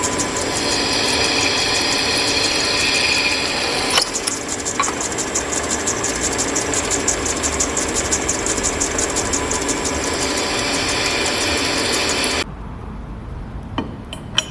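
A machine running with a fast, even mechanical chatter that cuts off abruptly about twelve seconds in. After that comes a quieter background with a few sharp clicks.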